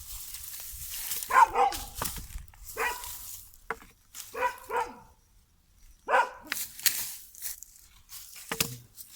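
A dog barking about four times, in short separate barks a second or more apart, with clicks and rustling between them.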